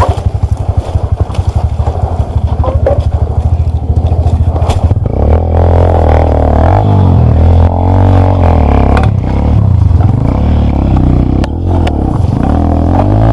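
Dirt bike engine idling with an even low chug, then from about five seconds in running louder under throttle, its pitch rising and falling as the revs change.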